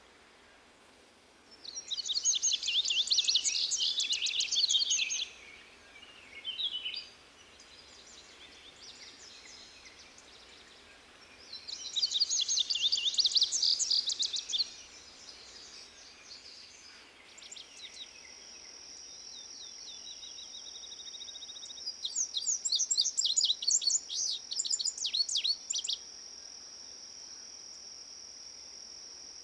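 A songbird singing phrases of rapid, high, warbled notes, each lasting about three to four seconds, with pauses between them. From about halfway through, a steady high whine runs underneath the song.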